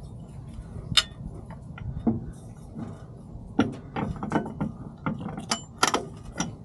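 Irregular metallic clicks and knocks of hand tools and hardware being handled, denser in the second half.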